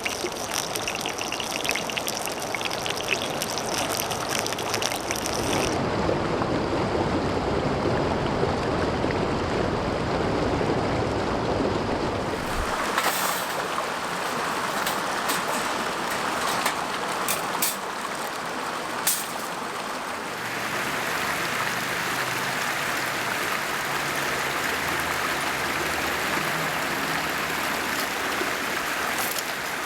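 Mountain stream rushing over rocks, a steady flow of water whose sound shifts in depth and brightness a few times, with a handful of sharp pops or clicks in the middle.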